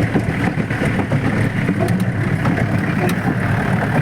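Off-road jeep running over a bumpy dirt track, its engine a steady low rumble with scattered short knocks and rattles from the jolting.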